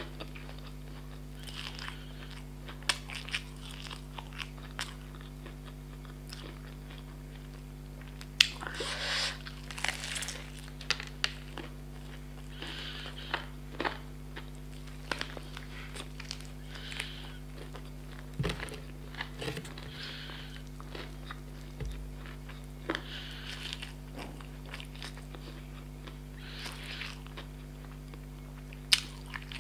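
Close-miked biting and chewing of crispy fried chicken, the breaded crust giving many short, sharp crunches and crackles scattered through the chewing. A steady low hum runs underneath.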